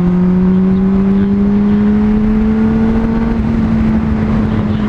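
Honda CBR600RR inline-four motorcycle engine running steadily under the rider, its pitch slowly rising as the bike gradually gains speed, with wind rushing over the helmet microphone.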